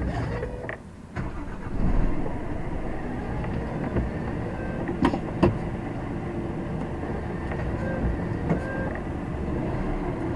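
Lorry's diesel engine heard from inside the cab: it picks up about two seconds in and then runs steadily as the truck moves off. A couple of sharp clicks come near the middle.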